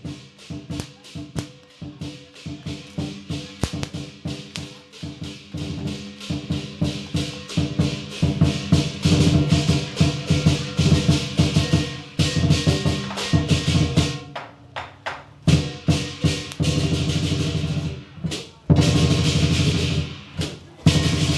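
A string of firecrackers going off in rapid cracks that thicken into a dense, near-continuous crackle, loudest in two long stretches with short breaks between, over the drum and cymbals of lion dance music.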